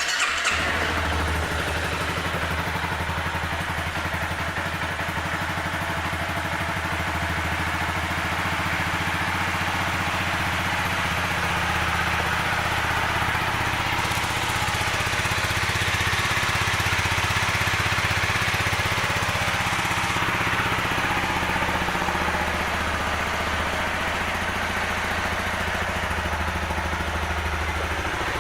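Honda CBR250R's single-cylinder, fuel-injected 250 cc engine idling steadily, a little louder for a few seconds in the middle.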